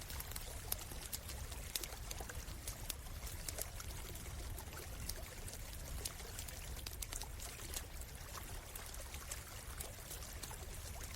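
Stream water trickling and pouring steadily, with a wood campfire crackling in many scattered sharp pops over it.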